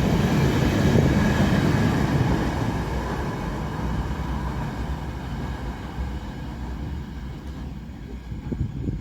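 Freight train rolling past on the rails, a steady rumble of wheels that fades gradually as the train draws away, with a few wheel knocks near the end.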